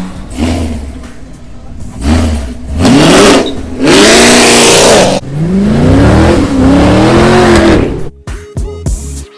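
Car engine revved hard several times, its pitch climbing and falling with each rev, over a loud rushing hiss. It stops about eight seconds in, giving way to music.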